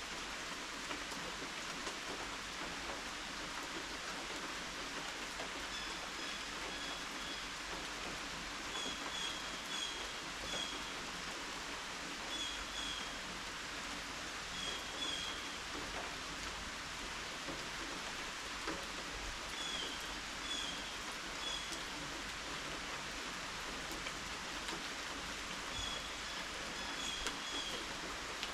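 Steady rain falling, an even hiss of drops. Short high chirps come in small clusters every few seconds over the rain.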